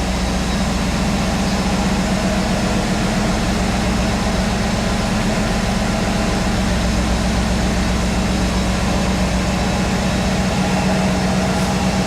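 1993 Camaro Z28's LT1 350 V8 idling steadily through its original exhaust, warming up after a cold start.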